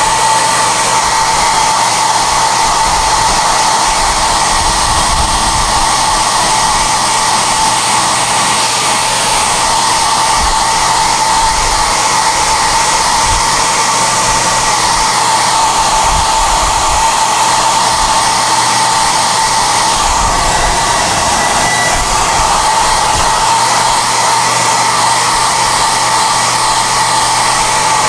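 SOUNATE high-airflow hair dryer (XM-H008/YX-HM008-G) running steadily: a loud, even rush of air with a steady whine.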